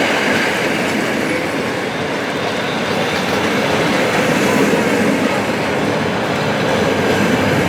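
A passing train rolling steadily by on the rails, its wheels running over the track; the train is a special hauled by the steam locomotive Ol49-69.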